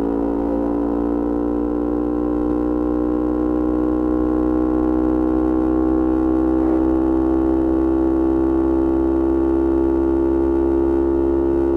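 Yamaha R25's parallel-twin engine through a Kea Speed aftermarket exhaust, held at steady revs under way, its pitch creeping slowly upward.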